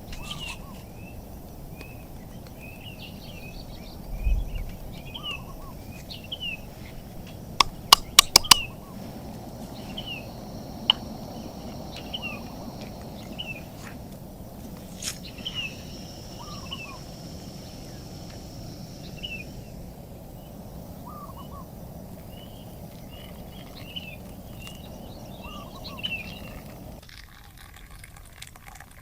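Forest birds chirping over and over in short, quick calls, over a steady low background noise. About eight seconds in comes a quick run of four sharp clicks.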